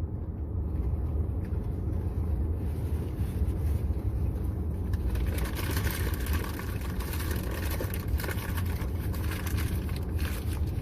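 Car engine idling, a steady low rumble heard inside the cabin. About five seconds in, a brighter hiss joins it.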